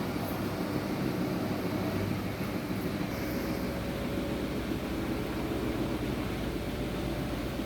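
Washing machine running with a steady motor hum and drone, washing a load of blankets.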